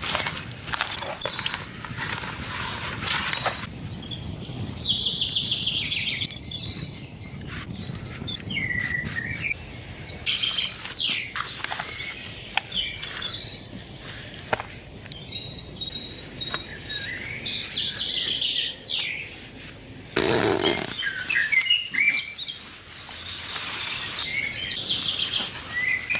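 Several songbirds chirping and singing in short phrases over a steady low rushing background, with a brief loud burst of noise about twenty seconds in.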